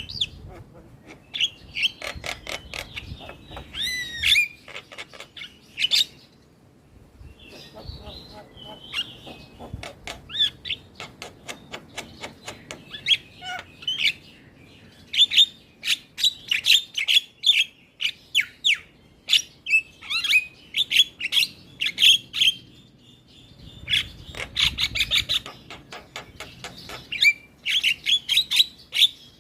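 Javan myna (jalak kebo) singing hard: fast runs of sharp chattering notes and clicks, with a short lull about seven seconds in and denser, louder chatter through the second half.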